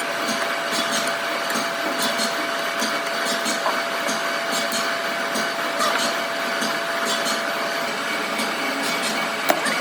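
Workshop machinery running steadily, a constant noise with a steady hum tone and faint repeated high ticks, and one sharp click near the end.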